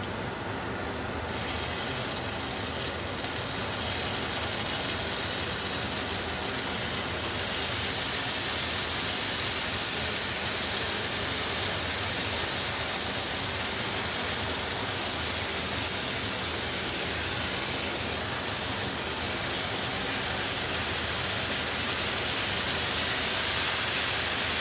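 Chicken fritters sizzling in a hot oiled frying pan as teriyaki sauce goes in; the sizzle grows louder about a second in and then stays steady.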